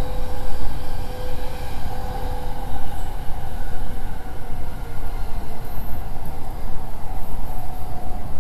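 Running noise of a JR East E231 series 800 commuter train at about 80 km/h, heard from inside the car: a steady rumble of wheels on rail with a faint tone underneath, as the train starts to slow.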